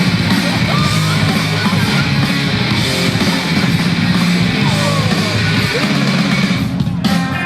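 Loud heavy-metal or punk-style music with distorted electric guitar over sustained low bass notes. The sound changes abruptly near the end.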